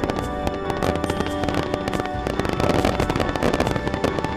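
Aerial fireworks bursting into crackling stars: a dense run of sharp cracks and pops, busiest in the middle, with music playing throughout.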